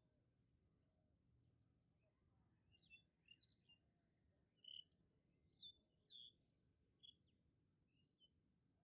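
Faint birds chirping: short, high calls that come every second or so, over a low background hum.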